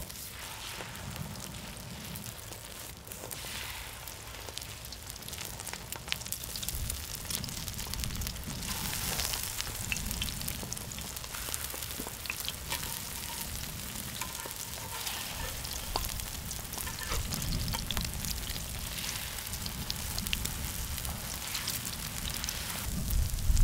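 Egg-battered beef jeon sizzling steadily in oil on a large cast-iron pot-lid griddle, with scattered light clicks of the spatula and turner against the griddle.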